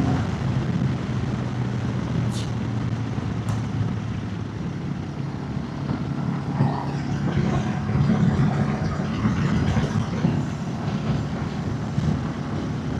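Royal Enfield motorcycle engine running steadily at riding speed, with wind noise over it.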